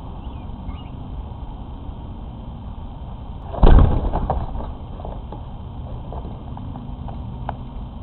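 An American robin flushes off its nest right beside the microphone: a sudden loud thump and rustle about three and a half seconds in, followed by a few light taps and clicks. A steady low rumble runs underneath, with a couple of faint chirps near the start.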